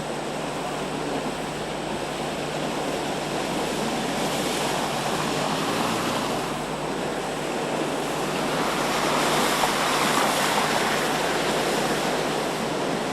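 Rough, storm-driven water and wind as a continuous rushing noise, surging louder about four seconds in and again around nine to eleven seconds.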